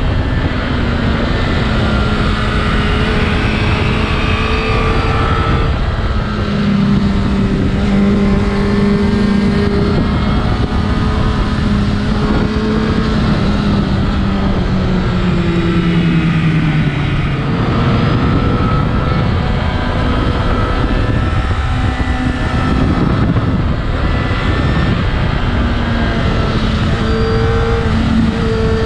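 Honda CBR1000RR Fireblade's inline-four engine running hard at road speed on a sportbike, with wind rushing over the microphone. The engine note holds, sags about halfway through, then climbs again higher as the throttle changes through the bends.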